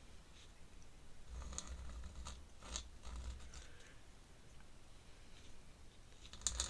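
Ink pen scratching across paper in a series of short, faint strokes, clustered between about one and three and a half seconds in and again near the end.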